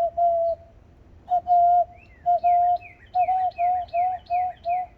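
A person practising a bird call: a series of short, steady whistled notes on one pitch, two at first, then after a pause a run of about nine at roughly two to three a second. From about two seconds in, fainter, higher notes fall in pitch alongside them.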